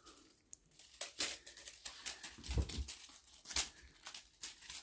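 Crinkling and rustling in short irregular bouts as a British Shorthair kitten scrambles and plays with a crinkly toy.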